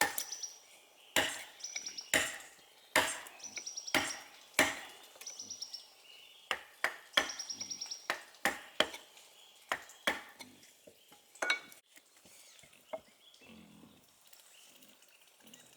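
A metal tool striking wood again and again, about one blow a second, some blows followed by a short high metallic ring. The blows stop about twelve seconds in, leaving only a few faint knocks.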